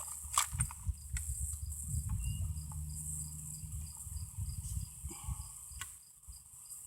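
Crickets chirping in a regular pulse over a steady high insect drone, with a low rumble and a few sharp knocks, one about half a second in and another near the end.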